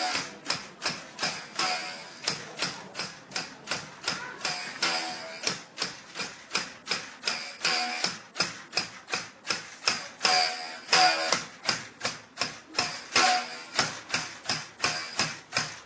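Traditional cotton-fluffing bow: its taut string is struck over and over with a wooden mallet, about three twanging strikes a second, many ringing briefly with a pitched tone.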